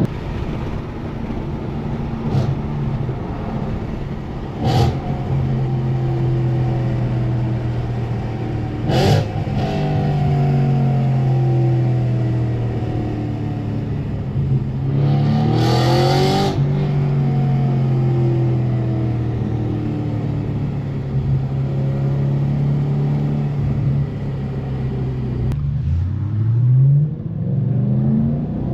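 Straight-piped 4.2-litre V8 of an Audi RS5 B8 running hard at speed, heard on board. Sharp cracks come about 5 and 9 seconds in, and a louder burst about 16 seconds in. Near the end the revs drop away and then climb again.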